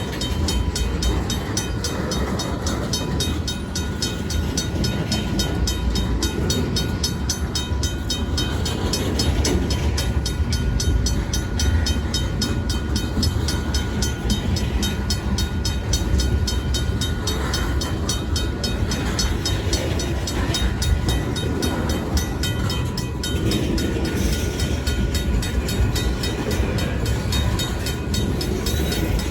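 Union Pacific freight train rolling over a grade crossing, a steady heavy rumble, with the crossing's RACO mechanical bell ringing in fast, even strokes over it.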